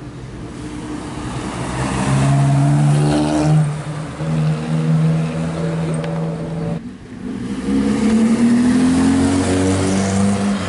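Rally car engines accelerating hard out of a tight corner, twice, with a sudden cut between them: first the engine note climbs and then holds high and steady, and about seven seconds in another car's engine climbs in pitch.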